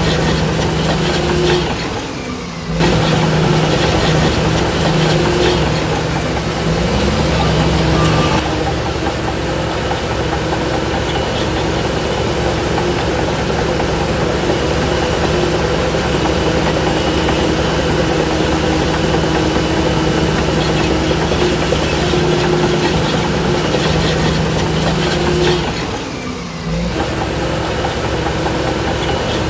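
Heavy diesel earthmoving machinery running steadily, most likely the Shantui DH17C3 bulldozer's engine working, with a noisy mechanical clatter. The sound dips briefly twice.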